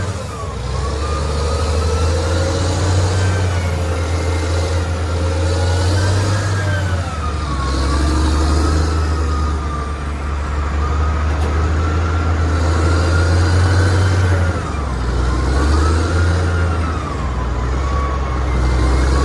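Excavator's diesel engine running steadily under load, with a whine that slowly rises and falls in pitch as it works.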